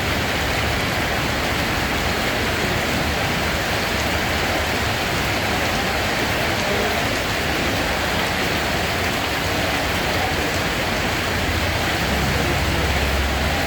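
Steady rain falling, an even hiss with a low rumble beneath it that swells slightly near the end.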